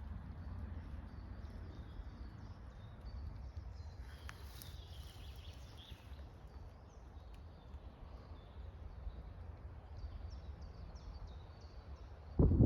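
Woodland birds chirping and calling over a steady low rumble, with one clearer call about four seconds in. A sudden run of loud knocks starts just before the end.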